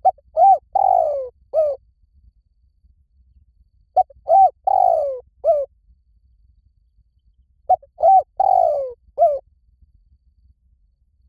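Spotted dove cooing: three phrases about four seconds apart. Each phrase is a short note, an arched coo, a longer falling coo and a final short coo.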